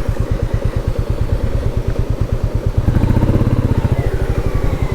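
Royal Enfield Meteor 350's single-cylinder engine idling with an even, rapid thump, growing a little louder and fuller about three seconds in.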